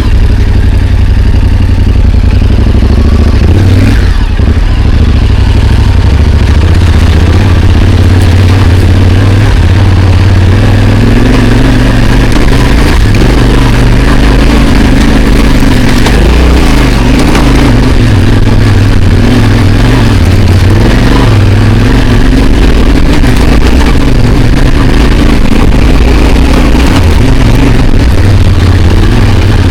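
Motorcycle engine running loud under load on a rough track, its pitch rising and falling with the throttle.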